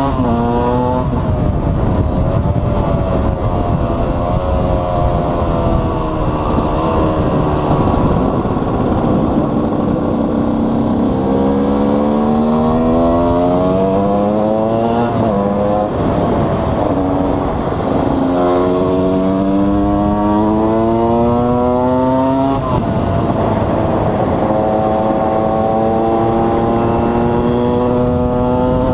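KTM 125 EXC's single-cylinder two-stroke engine pulling hard under load: its pitch climbs and then drops suddenly at each gear change, several times over. Wind and road noise run underneath.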